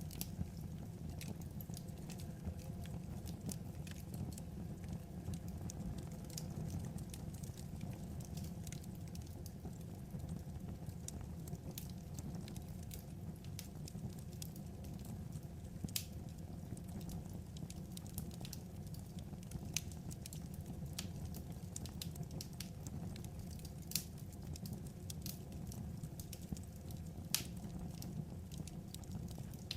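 Wood fire crackling: scattered sharp pops and snaps over a low, steady rumble of burning logs, with a few louder pops along the way.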